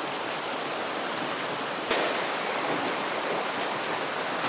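Creek water rushing steadily over rocks, with one sudden sharp sound about two seconds in.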